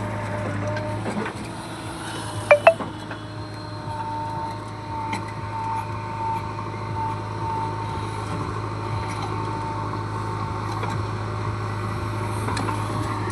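A heavy machine's diesel engine running steadily, with two sharp knocks about two and a half seconds in.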